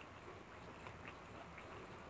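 Faint chewing by a person eating, with a few small scattered clicks of the mouth and of fingers picking at food on a plate.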